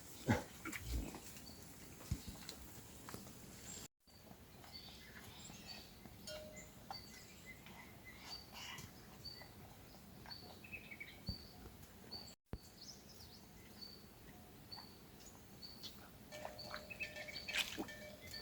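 A small bird giving a short, high chirp over and over, about once every second, against faint outdoor background noise, with a few knocks near the start.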